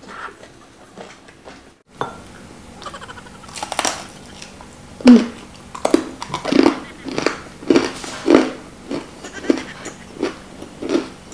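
Close-miked chewing of a piece of fried meat. Quiet mouth sounds at first, then from about five seconds in a steady rhythm of loud chews a little under two a second, the first one the loudest.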